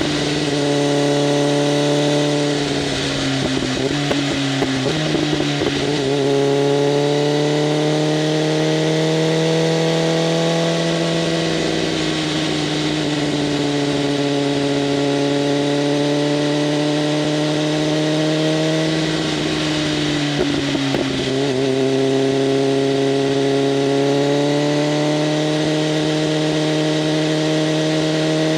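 BMW M1000RR's inline-four engine running through an open SC-Project CRT exhaust while riding. Its pitch rises and eases off several times as the throttle changes, with rougher breaks in the note a few seconds in, around the middle and again near the two-thirds mark.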